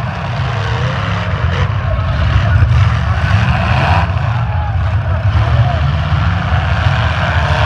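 Engines of several demolition derby cars running loudly together as they ram and push against each other.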